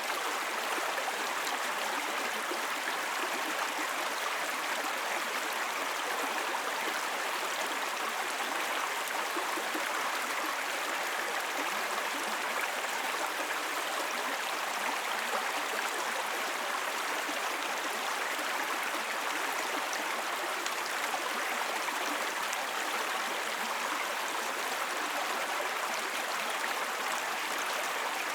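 Small spring brook babbling steadily over its bed, an even rush of running water that does not change.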